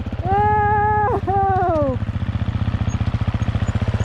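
Husqvarna FE 350's single-cylinder four-stroke dirt bike engine running at low revs with an even, rapid pulse. A long high call sounds over it about a quarter-second in: it is held, then breaks, then falls in pitch before the two-second mark.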